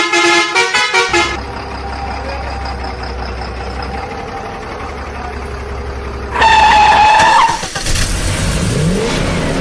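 Vehicle horn honks in quick succession, then a steady engine hum, one longer horn honk about six and a half seconds in, and an engine revving up near the end.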